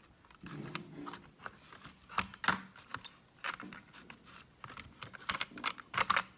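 Irregular light clicks and taps of small hard objects being handled, with a few sharper taps about two and a half seconds in and again near the end.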